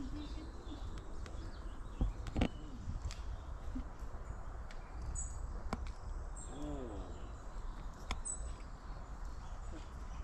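Outdoor background noise with scattered faint bird chirps, a few sharp clicks and one short pitched call about two-thirds of the way through.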